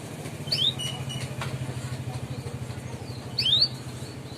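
Canary giving two short rising 'cuit' chirps, about three seconds apart, over a steady low hum.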